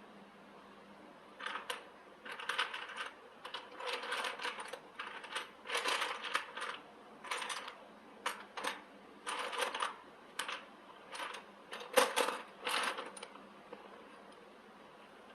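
Light metallic clinking and rattling in about a dozen short, irregular bursts, the loudest one a sharp clink near the end.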